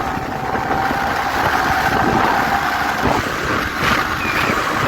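Steady wind noise on the microphone over a continuous vehicle rumble.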